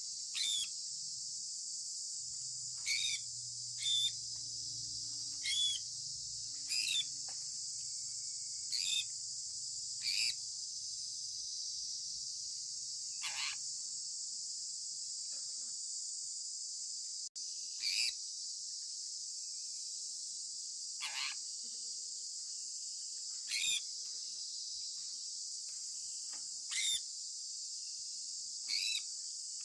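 Sun conure giving short chirps that drop in pitch, about a dozen of them, one to three seconds apart. A steady high hiss runs underneath.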